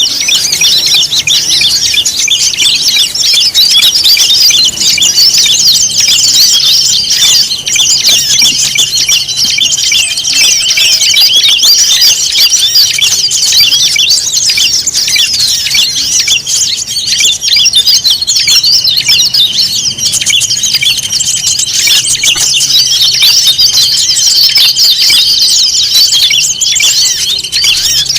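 A dense, unbroken chorus of many small songbirds chirping, trilling and squeaking at once, with a steady high whine beneath the calls. This is a bird-lure recording of mixed small-bird calls made to draw wild birds in.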